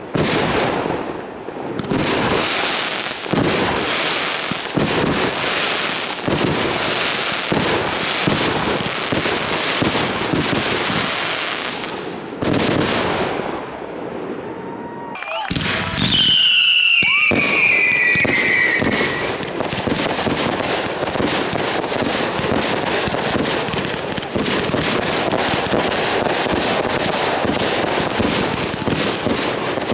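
Fireworks barrage: a dense run of bangs and crackling. About halfway through it briefly eases, then a falling whistle sounds for a few seconds before the bangs and crackling carry on.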